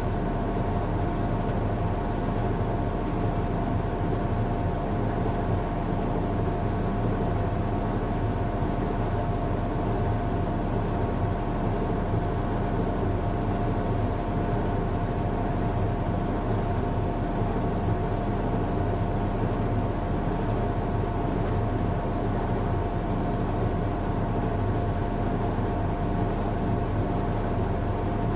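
Washing machine running on a strong cycle: a steady machine hum with a constant whine over it, unchanging throughout.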